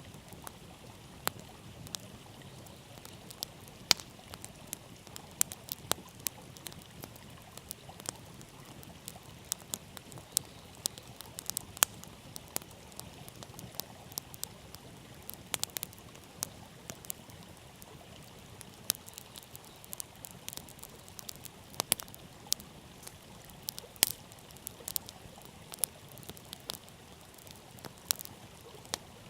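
Wood campfire burning directly on the ground, crackling with irregular sharp pops, several a second, over a faint steady rush.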